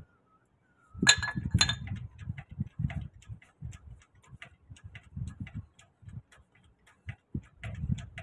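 A jack being worked under a maintenance truck, metal on metal: two sharp clinks about a second in, then steady ticking with dull knocks, about two or three a second, as the jack is operated.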